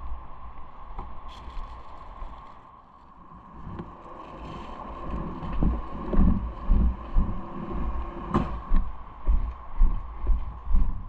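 Bicycle ride heard through an action camera: a steady low rumble with a thin constant whine. From about halfway, regular low thumps set in at about two a second.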